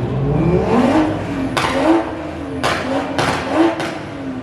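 A car engine revved again and again, its pitch climbing and dropping several times, with a few sharp cracks among the revs.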